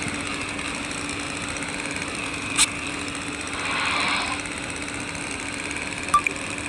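A steady machine hum, like a small motor running, with two sharp clicks about two and a half and six seconds in and a brief swell of hiss near the middle.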